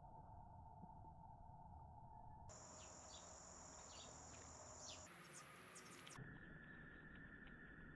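Faint outdoor ambience of steady insect drone, its pitch jumping abruptly every couple of seconds, with a few short bird chirps around the middle.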